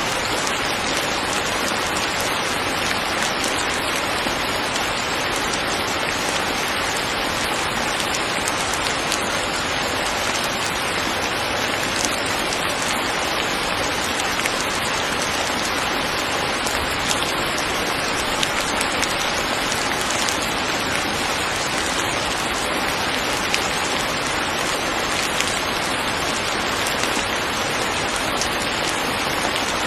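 Steady rain falling: a dense, even hiss of rain with faint scattered drop ticks.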